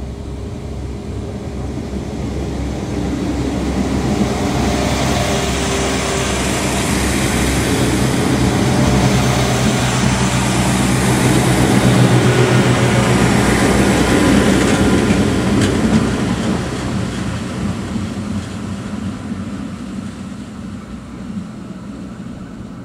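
Irish Rail 22000 class diesel multiple unit passing close by: the underfloor diesel engines and the wheels on the rails grow steadily louder to a peak about halfway through, then fade away. There is a single sharp click about two-thirds of the way through.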